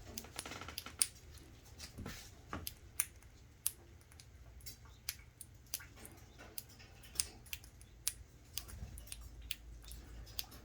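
A pet bird's beak clicking and snipping as it bites and chews spaghetti: short, sharp clicks at an uneven pace, about one or two a second.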